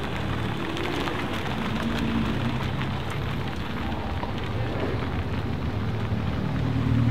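Audi RS3 sedan with the ABT RS3-R package, its turbocharged 2.5-litre five-cylinder running at low revs as the car rolls off slowly: a steady low exhaust note under a dense patter of small ticks.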